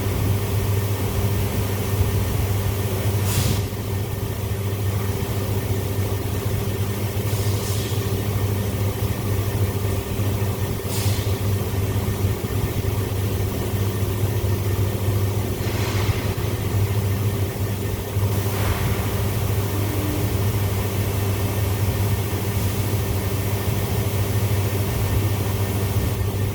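Surface grinder running with a steady electric-motor hum. Brief hissing sounds come every few seconds.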